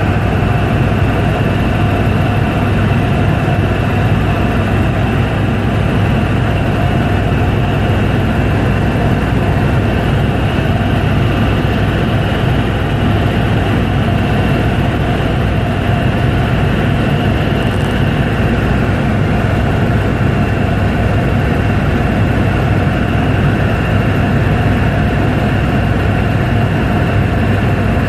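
Helicopter in steady flight: a loud, even engine and rotor drone with several held tones that do not change.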